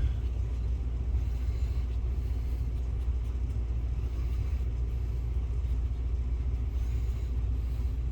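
A steady low rumble of background noise, with a short knock right at the start.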